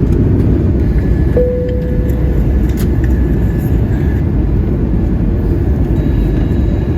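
Airbus A320neo cabin noise during descent: a steady, loud rush and rumble of engines and airflow. About a second and a half in, a single tone sounds and fades over about a second.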